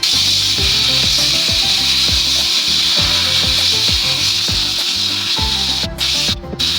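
Steady rasping hiss of abrasive work on a starter motor part, breaking off briefly twice near the end, over background music.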